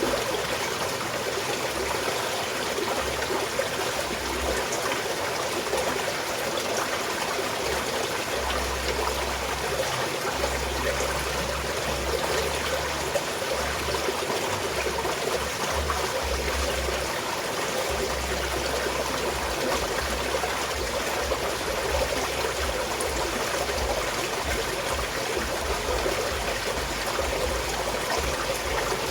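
Small mountain stream flowing and trickling steadily over stones, an even, continuous rush of water.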